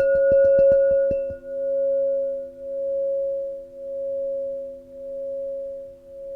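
Crystal singing bowl ringing a clear sustained tone with fainter lower tones beneath it. A fast, even pulsing from the mallet stops about a second in, and the tone then rings on alone in slow waves, about one a second, gradually fading.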